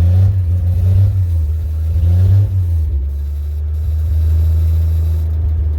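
Carbureted gasoline truck engine running on its own after a cold start. It holds raised revs, then eases down to a steadier, lower speed about two and a half seconds in, settling toward idle.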